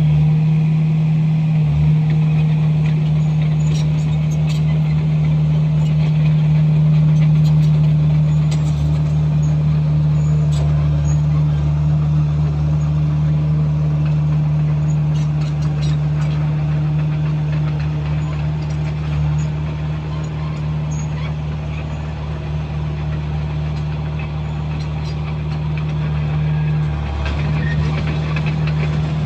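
A Komatsu bulldozer's diesel engine runs steadily as a loud, even low drone, with a few faint clicks and clanks over it.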